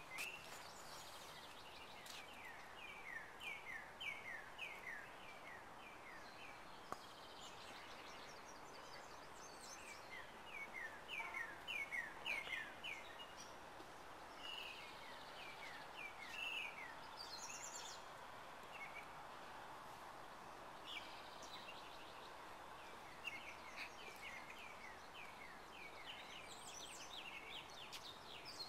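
Faint birdsong: runs of quick, falling chirps repeated several times, over a steady low background hiss.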